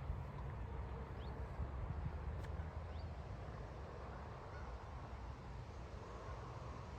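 Outdoor ambience: a steady low rumble with two faint high chirps, one about a second in and one about three seconds in, and a single light click midway.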